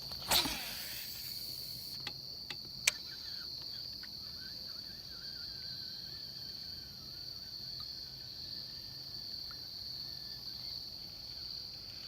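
Steady, high-pitched drone of an insect chorus. A brief swish about half a second in and a few sharp clicks around two to three seconds in.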